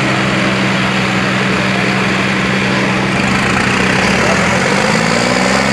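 Tractor diesel engine running steadily at a constant pitch, its pitch rising over the last second or so as it revs up.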